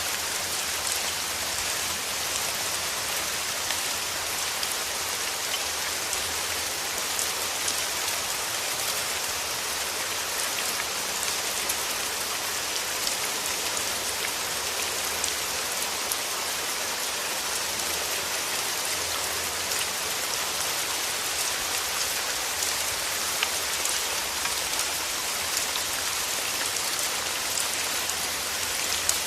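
Steady rain falling through forest trees: an even hiss of rainfall with many small, close drop ticks.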